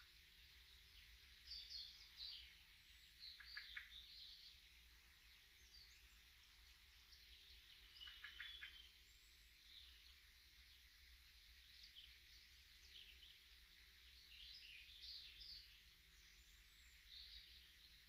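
Faint birdsong of small birds: scattered chirps and short twittering phrases at irregular intervals, with the strongest bursts about two, four and eight seconds in, over a faint steady hiss.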